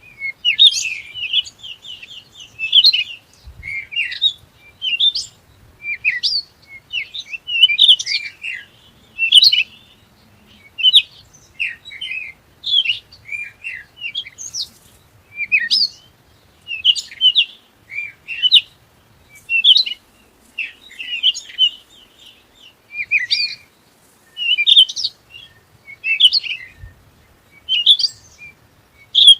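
A bird chirping in short, high phrases over and over, roughly one phrase a second.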